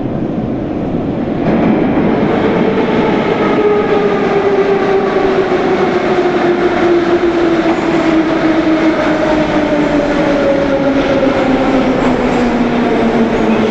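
Moscow Metro 'Sokolniki' retro train running through the station. Its motor whine falls slowly and steadily in pitch as the train slows, over a running rumble that grows louder about a second and a half in.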